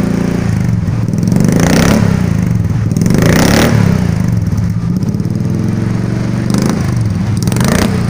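Suzuki Jimny engine running through a newly fitted full custom exhaust system (header to tailpipe), idling with four quick revs, about 2, 3.5, 6.5 and 7.5 seconds in.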